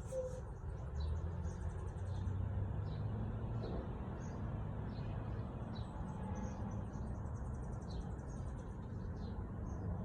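Small birds chirping and twittering, many short high calls with a couple of quick trills, over a steady low rumble.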